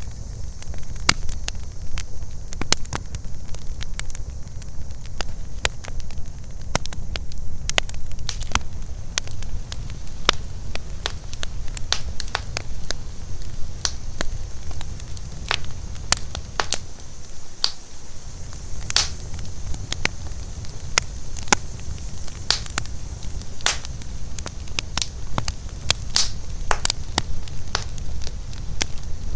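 Campfire crackling, with irregular sharp pops and snaps, over a steady high drone of night insects and a low rumble.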